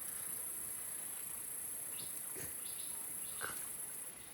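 Steady high-pitched insect drone, typical of crickets or cicadas, with a couple of faint knocks in the middle.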